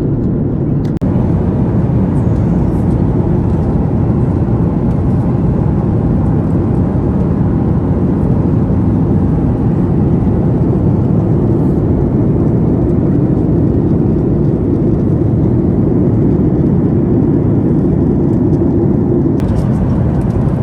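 Steady cabin noise of a Boeing 737 MAX 8 in flight: an even, deep rush of engine and airflow noise. A brief dip about a second in marks a cut.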